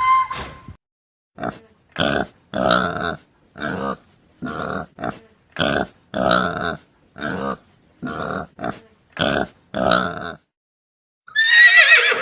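An animal calling in a quick run of about a dozen short grunting calls, then one longer, higher call that falls in pitch near the end.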